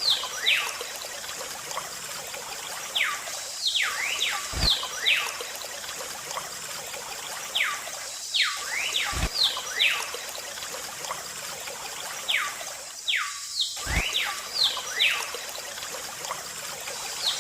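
Looped background track: a short phrase of quick whistle-like chirps and a low thump repeating about every four and a half seconds, over a steady hiss.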